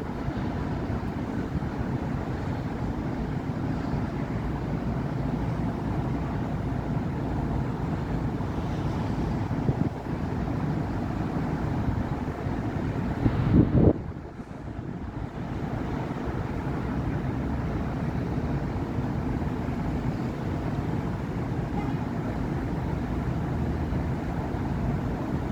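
Steady road traffic on a busy city avenue: a continuous low rumble of cars and buses. About halfway through, one vehicle passes loud and close with its engine note rising. A brief lull follows.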